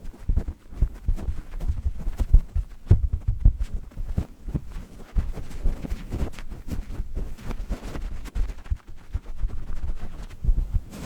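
Low, rumbling sleep-noise track made of deep, irregular throbbing pulses, several a second, over a steady low hiss.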